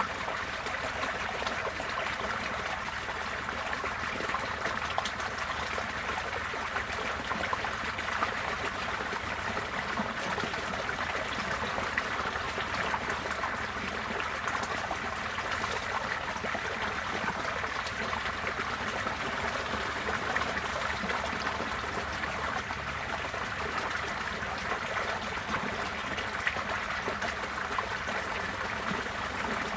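Receding floodwater flowing, a steady, even sound of running water with no breaks.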